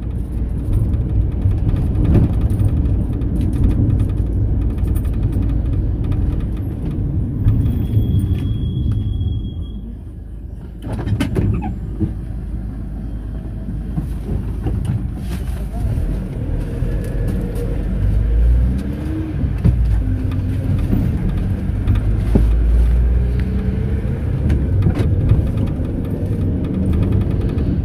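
Mercedes-Benz Sprinter minibus driving, heard from inside the cabin: a steady low engine and road rumble. A short high squeal comes as it eases off about ten seconds in, and later the engine note rises as it pulls away again.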